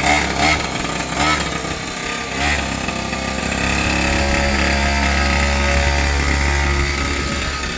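Gasoline two-stroke engine of a Primal RC Mega Truck warming up: a few short revs over the first couple of seconds, then running steadily and a little louder.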